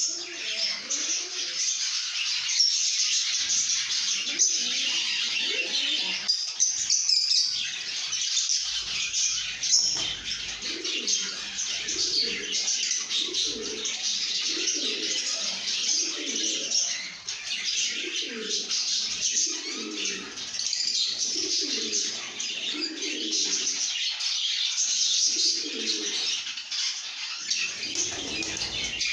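A flock of lovebirds chattering and chirping continuously in shrill, overlapping calls. From about a third of the way in, a lower call repeats roughly once a second beneath the chatter.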